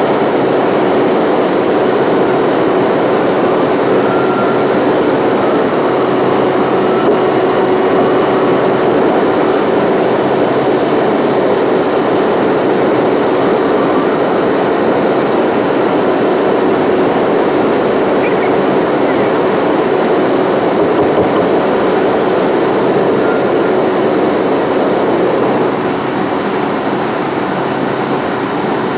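Steady road noise of a car driving at highway speed: tyre and engine noise with a faint steady hum, getting a little quieter near the end.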